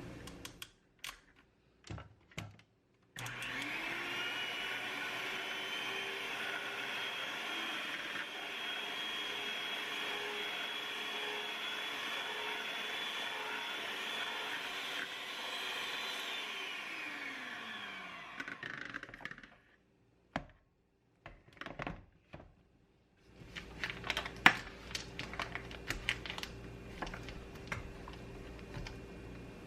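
A small electric motor appliance starts about three seconds in, rising in pitch as it spins up. It runs steadily for about thirteen seconds, then winds down over a few seconds and stops. Scattered clicks follow, then a low steady hum with a run of light taps and clicks near the end.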